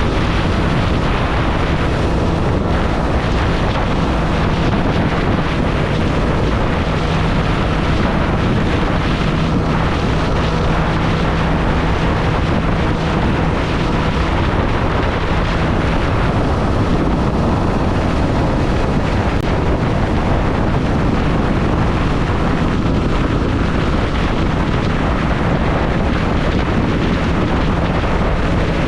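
Triumph Street Triple's inline three-cylinder engine running steadily under way, mixed with heavy wind rush on the microphone.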